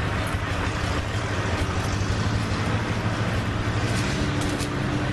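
Old stationary gas engine running steadily with a constant low hum, driving a water pump.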